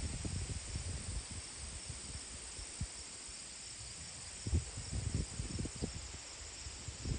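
Steady high chorus of insects such as crickets in marsh vegetation, with low muffled bumps near the start and again about four and a half seconds in.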